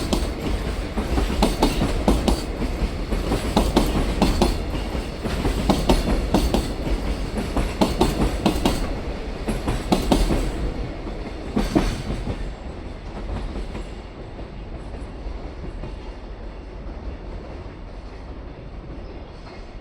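Freight train's wagons rolling past, the wheels clicking in paired beats over rail joints about every two seconds. The clatter fades away after about twelve seconds as the train's end passes and recedes.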